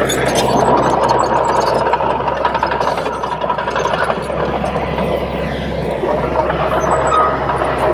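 Crawler bulldozer's diesel engine running steadily under load, with a continuous rattle and clatter like that of its steel tracks.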